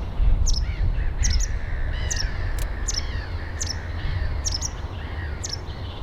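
Wild birds calling: a sharp high chirp repeats about twice a second over lower, harsher calls, with a steady low rumble underneath.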